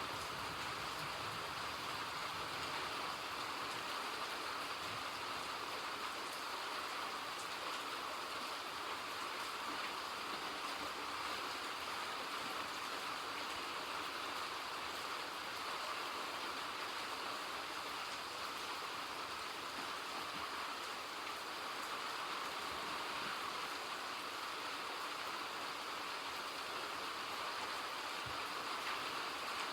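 Steady, even rain falling, a continuous hiss of drops with no change in strength.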